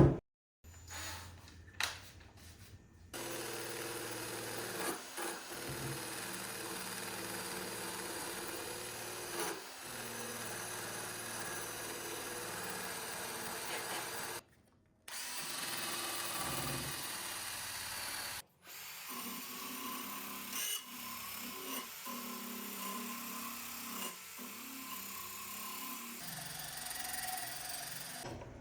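Power tool running steadily under light load, in several clips joined by sudden cuts; its pitch steps lower after the second cut, about two-thirds through.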